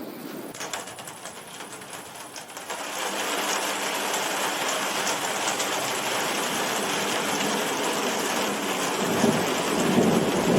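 Heavy rain falling hard in a tropical storm, growing much louder about three seconds in and then holding steady; a lower rumble joins near the end.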